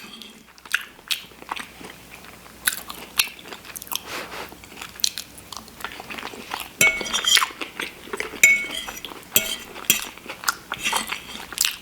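Close-miked chewing and wet mouth clicks of someone eating shepherd's pie, with two light clinks of a utensil on the dish partway through.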